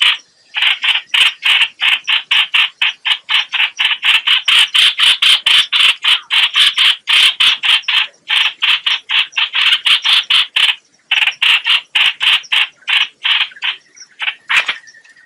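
Lure-call recording of the bird called 'hoạch hoạch' in Vietnamese, used to call birds in for trapping: a loud, fast string of short identical notes, about four or five a second, broken by brief pauses a few times.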